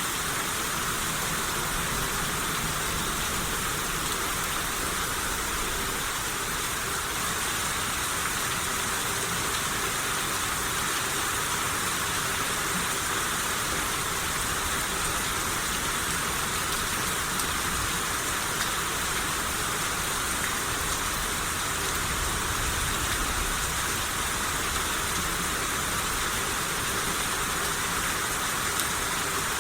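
Steady rain shower falling, an even hiss of rain with no breaks or single louder drops.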